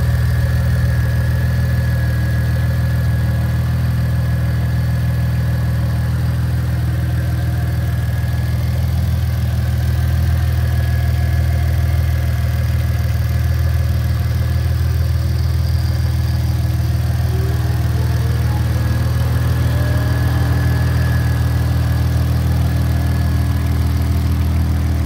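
Audi 2.8 V6 biturbo engine idling steadily on its first run after a GT28/71 turbocharger conversion, with a thin steady whine above the idle.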